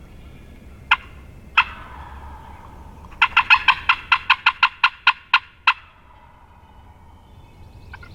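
Turkey calling: two single sharp notes, then a fast run of about a dozen loud, evenly spaced yelps, about five a second.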